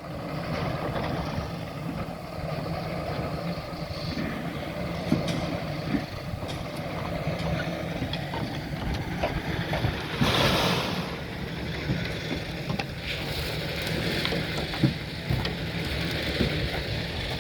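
A steady engine-like rumble with scattered clicks and knocks, and a short rush of noise about ten seconds in.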